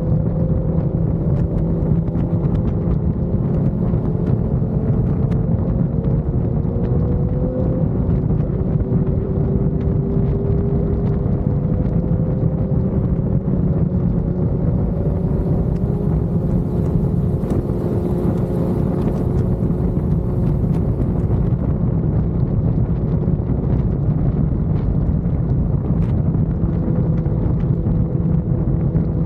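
Motorcycle engine holding a steady highway cruise, its note drifting only slightly, under heavy wind rush on the microphone.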